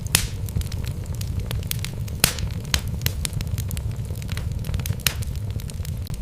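Wood fire burning in a fireplace: logs crackling and popping in irregular sharp snaps over a steady low rumble of the flames, with a few louder pops.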